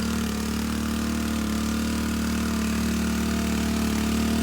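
Four-stroke engine of a home-built pump boat for watering plantation ditches, running steadily at one constant speed.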